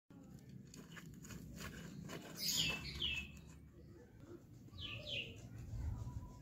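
A bird chirping: two quick, high, falling chirps about two and a half seconds in and two more about five seconds in, over faint scattered clicks.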